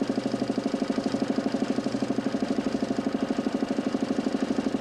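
DC motor spinning a large 40cm plywood Nipkow disc in a homemade 32-line mechanical television, running at a steady speed. It makes a loud, even hum with a rapid, regular pulsing.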